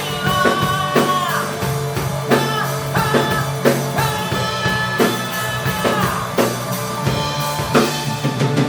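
A band playing a rock song without lyrics: a drum kit keeps a steady beat of about two hits a second under long held melody notes and a steady bass line.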